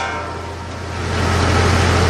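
McConnel Log Mate circular saw bench running free between cuts, a steady low hum with a thin blade whine. The level dips just after the start and rises back within about a second.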